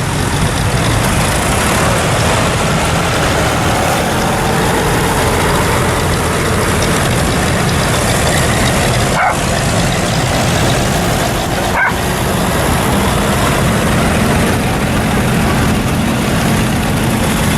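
Vintage tractor engines running steadily amid dense outdoor rally noise, with two very brief dropouts about nine and twelve seconds in.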